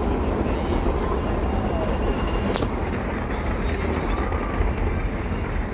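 Fireworks display heard from afar as a steady, dense rumble of overlapping bursts, with faint crowd voices above it and one brief high whistle about two and a half seconds in.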